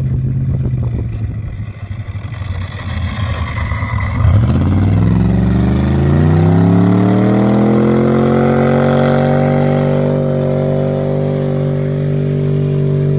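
Car engine running unevenly, then about four seconds in revving up over several seconds and held steady at high revs.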